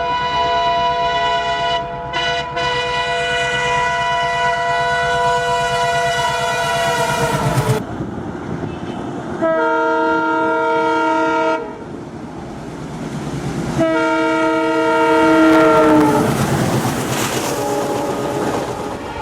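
Indian Railways diesel locomotive sounding its horn: one long blast of about eight seconds, then two shorter blasts, each sagging in pitch as it ends. Underneath runs the rumble and clatter of the moving train.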